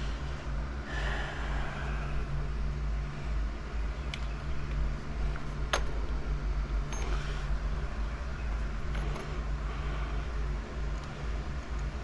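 Small metallic clicks and light rattling of a motorcycle chain's master link being pressed into place by hand, with one sharper click a little before halfway, over a steady low hum.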